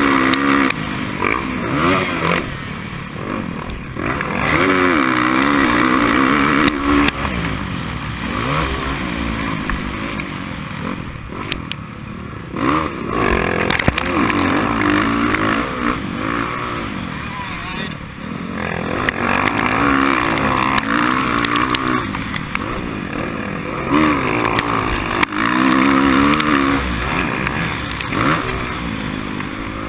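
Motorcycle engine at race pace, its pitch climbing and dropping again and again as it is revved hard, backed off and shifted.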